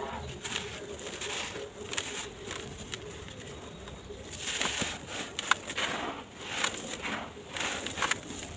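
Dry sand-cement blocks crumbling in a tub: irregular gritty crunches and crackles, busiest in the second half. A low pitched call sounds near the start.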